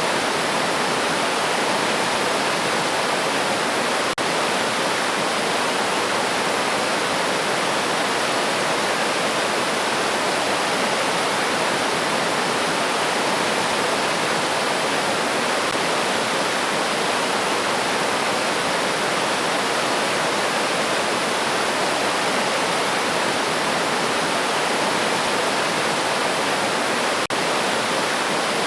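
River water rushing steadily over rocks, an even, unbroken noise, with two very brief dropouts in level, one about four seconds in and one near the end.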